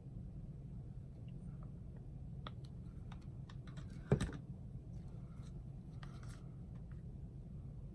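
Scattered light clicks and taps over a low steady hum, with one louder knock about four seconds in.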